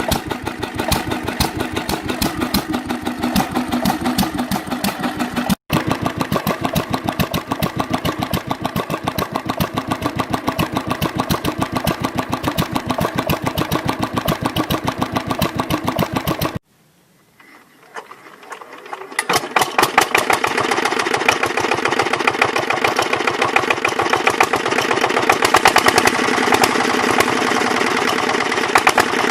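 Old diesel engine running with a steady, rapid firing beat. After a short quiet gap about two-thirds of the way through, another engine starts up, its beat building in loudness and then running steadily.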